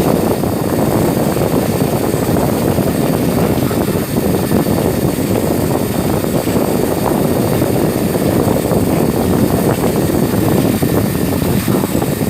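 CNC milling machine running: a loud, steady noise without a clear pitch.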